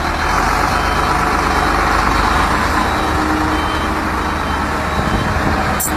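A heavy truck running with steady engine and road noise. Faint short high-pitched beeps repeat over it, like a truck's warning beeper.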